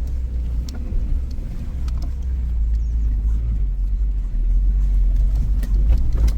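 Suzuki Jimny crawling over a rocky off-road track: a steady low rumble of engine and tyres, with scattered knocks and rattles from the body and suspension.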